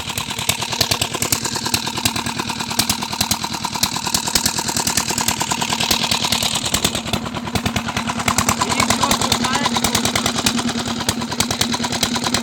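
Old Petter diesel engine running steadily at the tubewell, a fast, even knocking of firing strokes that never lets up.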